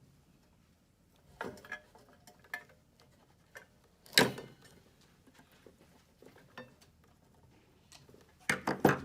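Scattered small clicks and snaps of pliers working on the lamp wires as their insulation is stripped, with one sharp snap about four seconds in and a quick run of clicks near the end.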